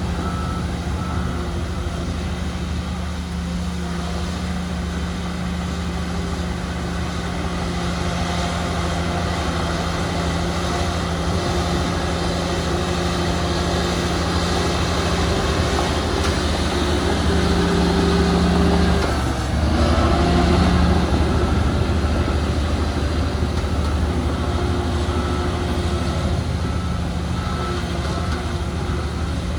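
Heavy diesel earthmoving machinery running steadily, louder for a few seconds past the middle with a brief dip in between. A faint repeated beep, like a reversing alarm, comes and goes near the start and again in the last third.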